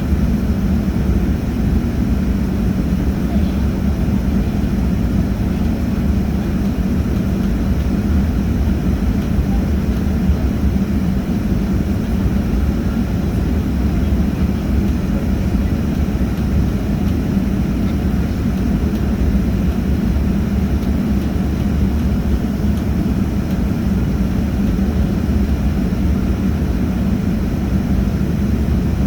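Airliner engines running with a steady, even drone and low rumble that holds level throughout.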